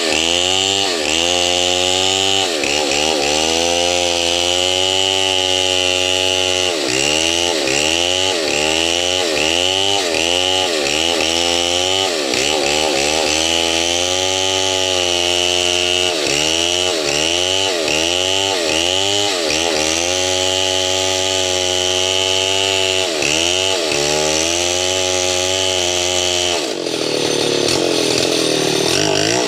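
Two-stroke chainsaw cutting wood, its engine note sagging under load and picking up again, over and over. Near the end the note changes and steadies.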